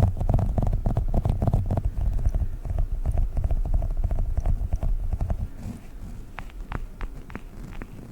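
Sticky squishy Globbles toys being squished and tapped close to the microphone: a fast run of small clicks and soft thumps, thinning to a few sharper taps over the last couple of seconds.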